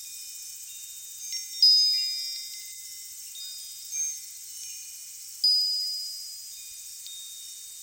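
Wind chimes ringing irregularly: several high notes struck together about one and a half seconds in and again about five and a half seconds in, with a lighter strike around four seconds, each ringing on and fading. A faint steady hiss lies underneath.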